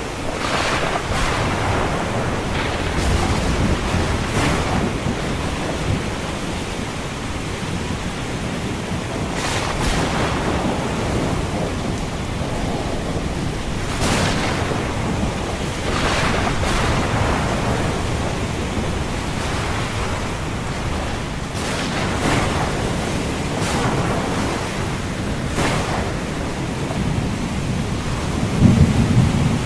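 Ocean surf mixed with a thunderstorm: a steady wash of waves and rain with repeated brief surges. A low rumble of thunder comes near the end.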